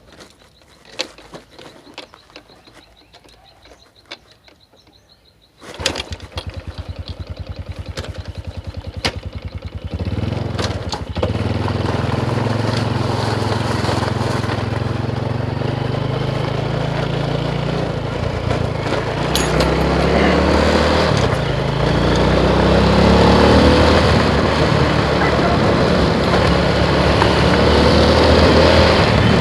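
A few light clicks and knocks, then a motorcycle engine starts about six seconds in and runs with an even, fast beat. About ten seconds in it gets louder as the bike pulls away, its pitch climbing in sweeps as it accelerates.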